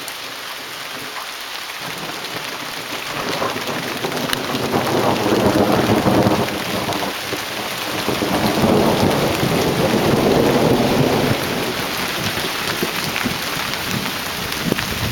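Steady heavy rain falling, with thunder rumbling through it. The rumble swells about three seconds in, dips briefly, swells again around eight seconds in, and eases off after that.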